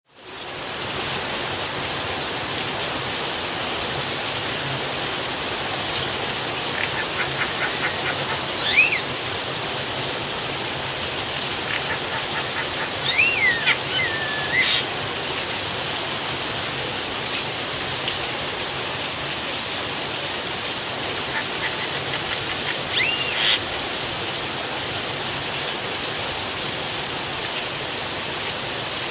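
Steady hiss of falling rain, with a Javan myna calling in three short bouts: each a quick run of clicks followed by whistled notes that rise and fall.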